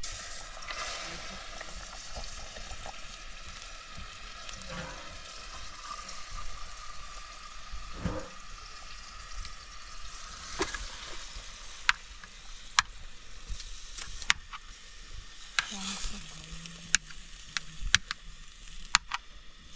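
Food sizzling as it fries in a pan, a steady hiss, with a run of sharp clicks in the second half.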